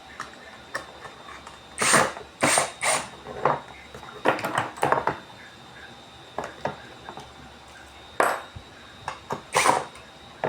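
Hand work on a washing machine's plastic pulsator: a screw being fitted into its hub, with a series of short, separate knocks and clicks of the tool and metal parts, the loudest clustered about two seconds in and again near the end.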